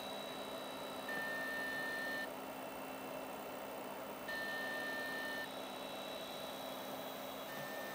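Stepper motors of an Arduino coil winding machine, driven by A4988 drivers, whining at steady high pitches while winding a coil. The pitch switches every second or so, with two louder stretches about a second long, over a steady low hum.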